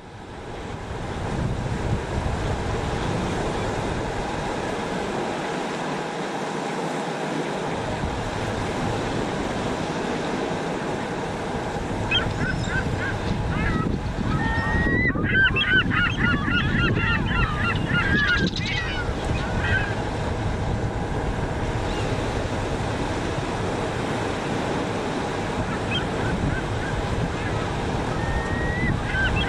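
A flock of waterbirds calling, mostly Canada geese honking, over steady wind and lapping lake water. The calls come thickest from about twelve to nineteen seconds in and pick up again near the end.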